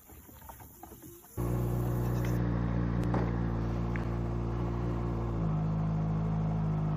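Kawasaki Z H2's supercharged inline-four engine running steadily, coming in abruptly about a second and a half in. Its note shifts lower about four seconds later.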